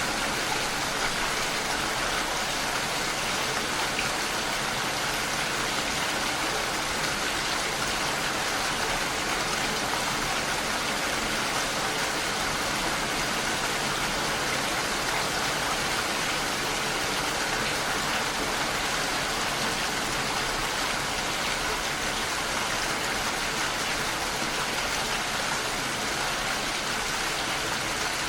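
Heavy rain falling on a window, a steady, even hiss with no single drops or gusts standing out.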